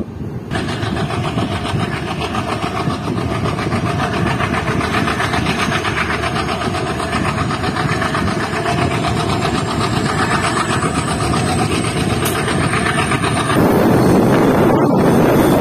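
Express train running, heard from an open coach doorway: a steady clatter of wheels and coaches. About 13 seconds in it gives way to a louder rush of wind on the microphone as the train picks up speed.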